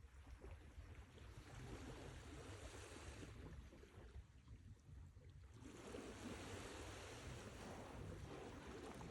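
Sea waves washing in, faint: a rush of surf that ebbs to a lull midway, then a new wave surges in about six seconds in.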